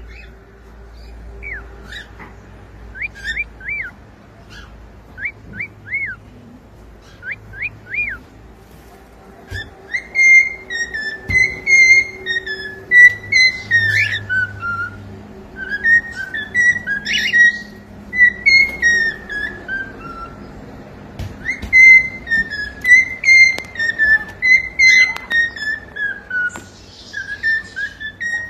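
Cockatiel whistling: a few short rising-and-falling notes, then from about a third of the way in a long warbling whistled song in repeated phrases that step down in pitch, with a few short clicks among them.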